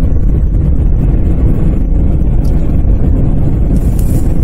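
Steady low rumble of a vehicle driving on a snow-covered highway, heard from inside the cab: tyre and engine noise. A brief hiss comes near the end.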